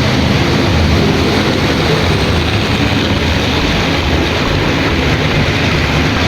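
Battery-powered toy train running steadily along its track: a continuous motor whir and wheel noise without a break.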